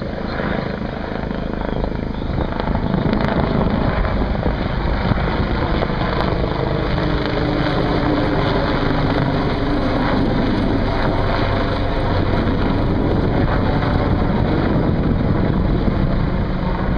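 Firefighting helicopter's rotor and engine running loud and steady, getting a little louder over the first few seconds.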